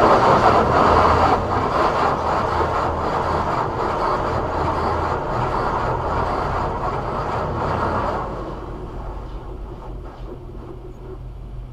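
Automatic car wash running over a vehicle, heard from inside the cabin: a steady rushing wash of spray and machinery against the body, with a low idle hum beneath. The rush fades about eight seconds in as the equipment moves off.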